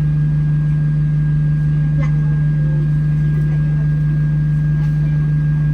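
Inside an Alexander Dennis Enviro200 bus: the engine's steady low drone with a constant thin high whine over it. The uploader calls the whine a weird vacuum-cleaner sound and thinks it comes from the air-conditioning cooling fan.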